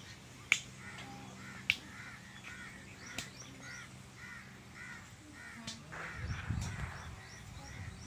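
A bird calling over and over, a run of short arched calls about twice a second for a few seconds. Four sharp clicks stand out as the loudest sounds, and a low rumbling noise comes in near the end.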